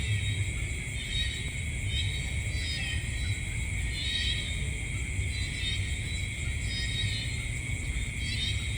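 Night insect chorus: a steady high-pitched trilling drone, with a repeated chirping pulse about once a second, over a low steady rumble.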